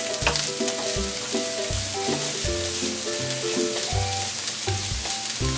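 Chopped onion and garlic sizzling in hot oil in a frying pan, stirred now and then with a spatula. Soft background music with a melody and bass plays over the steady sizzle.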